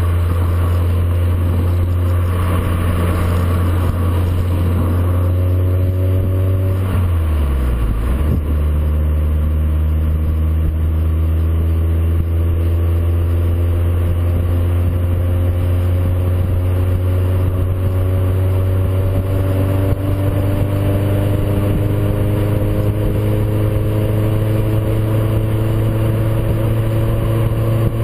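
VW Golf 4 engine running through a JOM stainless-steel rear silencer, a steady low exhaust drone. Its pitch drops sharply about seven seconds in, then climbs slowly and evenly for the rest.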